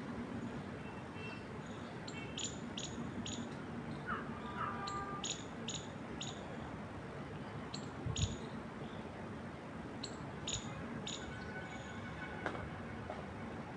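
Small birds chirping in short runs of three or four high chirps, with a few lower whistled notes, over a steady rush of wind through trees. A brief low thump sounds about eight seconds in.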